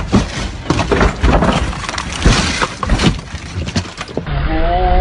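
Car crash: a run of crashing impacts with glass shattering and debris clattering for about four seconds, then a short wavering pitched sound near the end.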